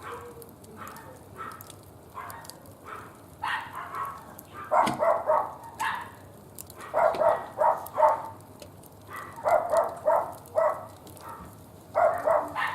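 A small dog yapping in quick runs of four or five short, high barks, several runs a few seconds apart, over the faint crackle of a wood fire burning in a barbecue grill.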